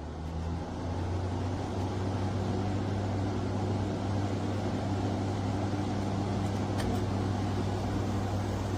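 Window air conditioner running with a steady low hum, building up over the first second after starting.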